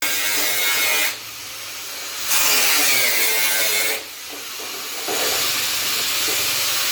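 Abrasive work on metal: three rasping passes of about one to two seconds each, with short pauses between them.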